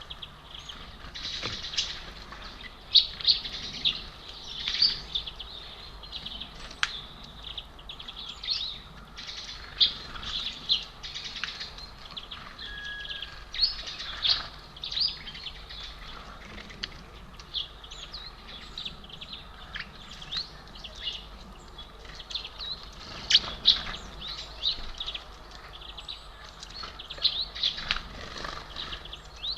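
Small birds at a feeder giving many short, high chirps, with brief wing flutters as they come and go.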